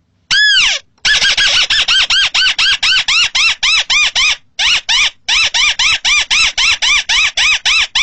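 Crake (Indonesian 'burung tikusan sawah') calling. A single longer, arched note comes first, then a rapid run of short, clear, arch-shaped notes at about four a second, with two brief breaks.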